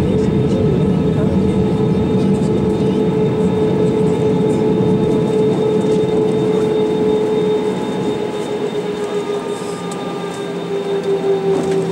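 Steady running noise inside a moving vehicle, with a strong steady hum that drifts slightly lower in pitch and eases off a little in level about two-thirds of the way through.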